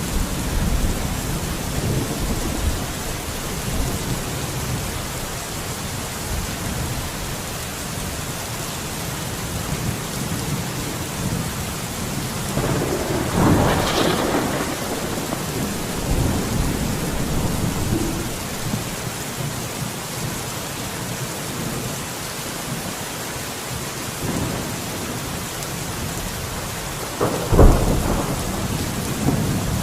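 Steady rain falling through a thunderstorm, with low rolling thunder rumbling underneath. A louder thunderclap swells about halfway through, and a sharp, loud crack of thunder comes near the end.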